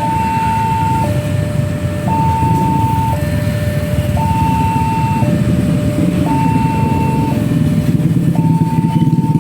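Railway level-crossing warning alarm sounding a repeating high-low two-tone signal, each tone held about a second, over a steady low rumble.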